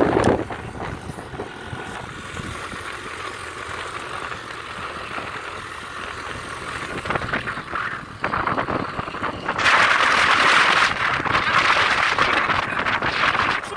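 Road noise from a moving vehicle, with wind on the microphone; a much louder rush of noise comes in about ten seconds in.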